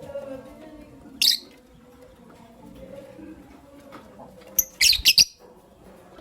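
Lovebirds giving short, shrill chirps: one about a second in, then a quick burst of about four near the end.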